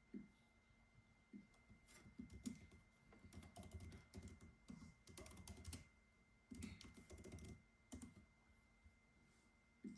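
Faint typing on a computer keyboard: quick runs of key clicks in two bursts through the middle, with a few single keystrokes before and after.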